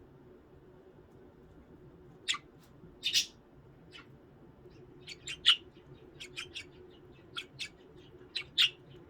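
Budgerigars giving short, sharp chirps and squawks, a few at first and then a quicker run of them in the second half.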